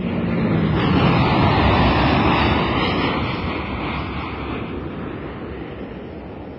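Sound effect of a fighter jet going down: a loud rushing noise that swells over the first second or two, then slowly fades away.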